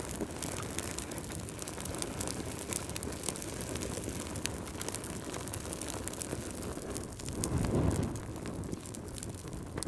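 Wood fire crackling: scattered sharp pops and snaps over a steady low rumble of flames, with a brief louder surge of the rumble near the end.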